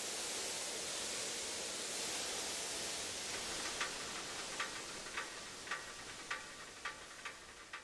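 A steady hiss from the Toyota AE86's blown engine as smoke pours from under the bonnet, slowly fading. From about halfway through, light metallic ticks at roughly two a second, unevenly spaced, sound over the hiss, like hot engine metal ticking as it cools.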